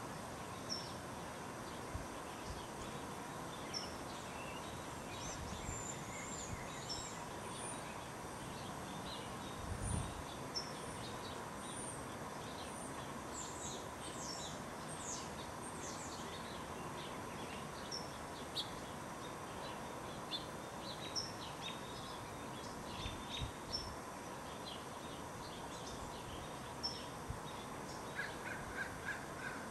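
Backyard birds calling: scattered short, high chirps and call notes throughout. Near the end a quick series of lower, repeated calls starts.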